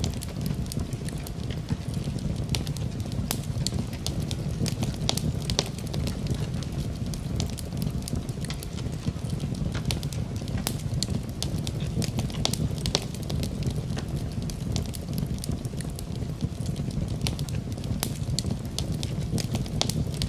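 Wood fire crackling in a fireplace: a steady low rumble of flames with frequent irregular sharp pops and snaps of burning wood.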